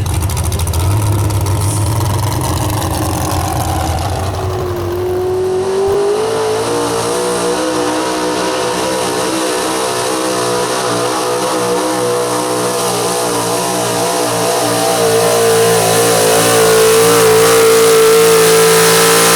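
Super stock 4x4 pulling truck engine climbing in revs a few seconds in, then held at high, nearly steady revs under load. It is loudest in the last few seconds, and the revs drop away sharply at the very end.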